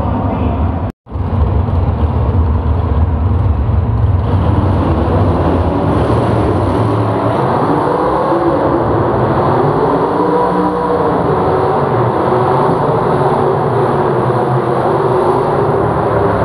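Loud engine of a pulling tractor or truck running hard under load, its pitch rising and falling briefly in the middle as it revs. The sound cuts out for a moment about a second in.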